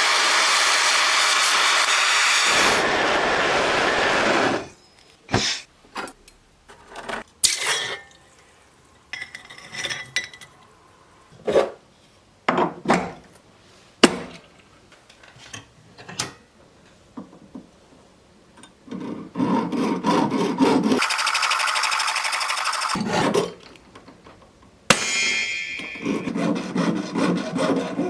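Silversmithing tool work on sterling silver jump-ring stock: spells of steady rasping tool noise, with small sharp metal clicks and taps in between.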